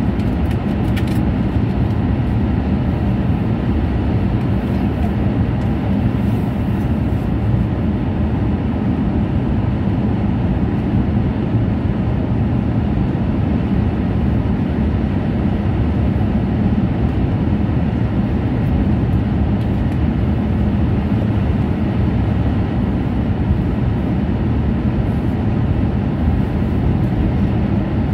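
Cabin running noise of an E6-series Komachi Shinkansen at high speed: a steady low rumble.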